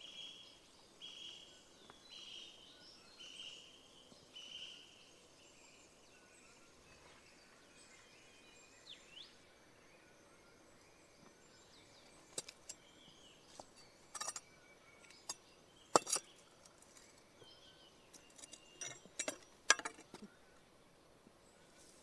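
Quiet outdoor ambience: a bird repeats a short, steady, high call about once a second for the first few seconds. From about twelve seconds in come scattered sharp clicks and snaps, the loudest near the end.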